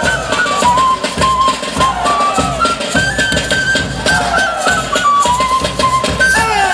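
Traditional Peruvian folk dance music: a flute melody moving in steps over a steady drum beat, with repeated falling glides.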